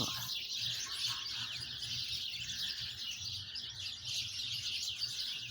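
A flock of many small birds chirping at once, a dense, continuous chatter of short, high-pitched overlapping calls.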